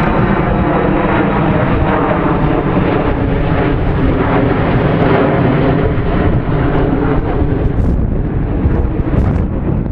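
Wind buffeting the microphone over a steady, engine-like drone.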